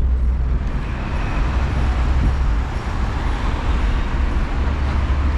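Steady city road traffic noise: a continuous low rumble of vehicles running, with an even hiss of tyres and engines.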